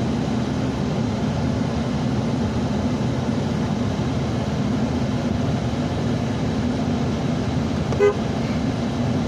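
Steady low hum of a car engine idling, then one short toot of the car horn about a second before the end.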